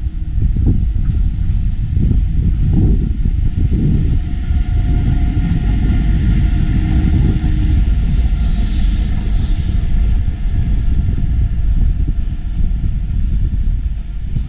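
Diesel train running past, a loud steady low rumble with faint whining tones over it in the middle.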